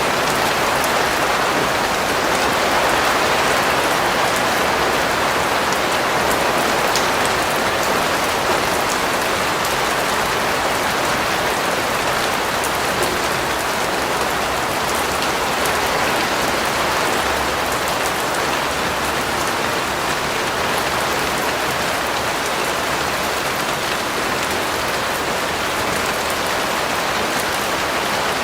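Steady rain falling on a surface, an even hiss of many drops with fine drop ticks, unchanging throughout.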